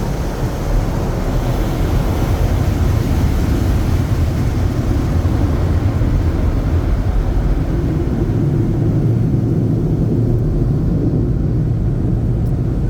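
Automatic car wash machinery heard from inside the car's cabin: a loud, steady low rumble. The higher part of the noise fades away near the end.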